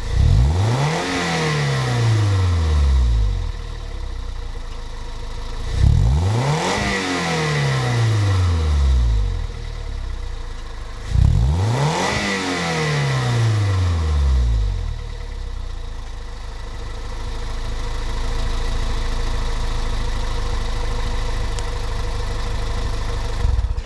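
Toyota MR2 Spyder's 1.8-litre four-cylinder engine through a stainless-steel grille-exit dual exhaust with a MagnaFlow dual-outlet muffler, blipped three times, each rev climbing fast and falling back slowly to idle, then idling steadily. The sound stops suddenly near the end.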